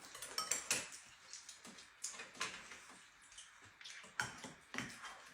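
Faint, scattered clicks and clinks of chopsticks against bowls and plates during a meal.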